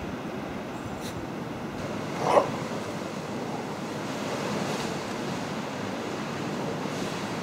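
Blizzard wind rushing steadily over the microphone, with one short, sharp sound a little over two seconds in.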